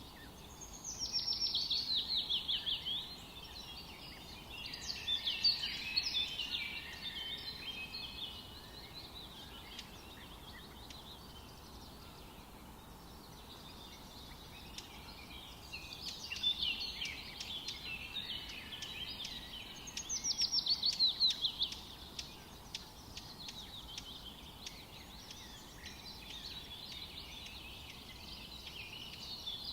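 Songbirds singing in a forest: bursts of chirping song come and go, twice a quick series of falling notes (about a second in and about twenty seconds in), over a faint steady background hiss.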